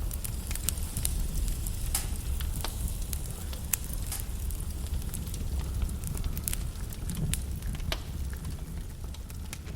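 Wood log fire crackling: scattered sharp pops and snaps over a steady low rumble of the flames.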